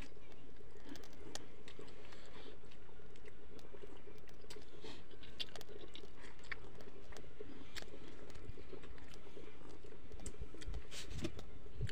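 A person chewing and eating fish and rice by hand, close to the microphone: many small wet mouth clicks and smacks over a steady background hiss, with a few heavier bites near the end.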